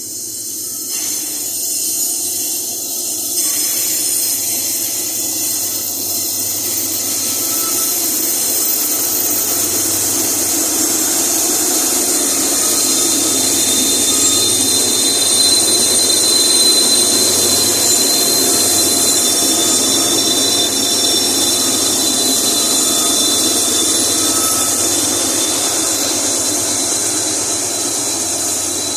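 Loaded iron ore wagons rolling past on the rails: a steady rushing wheel-on-rail noise with a high-pitched wheel squeal, growing louder over the first few seconds and then holding steady.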